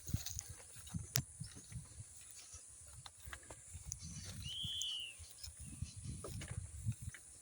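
Outdoor rural ambience: wind buffeting the microphone in uneven low gusts, with a single short bird chirp, rising then falling, about halfway through.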